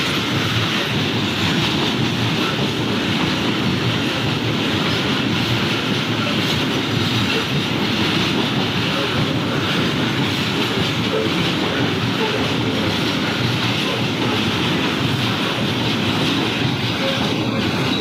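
Train running on the rails: a loud, steady rumble of wheels on track with some clickety-clack.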